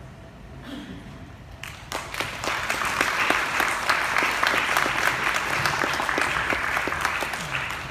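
Audience applauding. It starts about two seconds in, builds to a steady clapping, and tapers off near the end.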